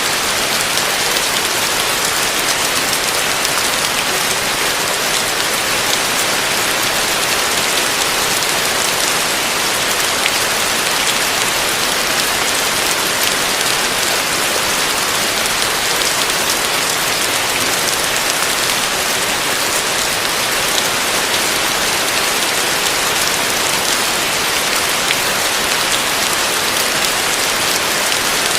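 Heavy rain falling steadily: a dense, even hiss with faint ticks of individual drops, unchanging throughout.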